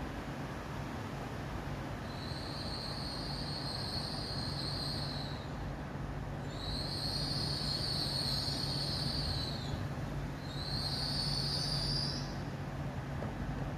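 GWR Class 800 train 800022 drawing into the station and slowing, with a steady low running hum. Over the hum come three long, high-pitched squeals from the wheels and brakes as it slows.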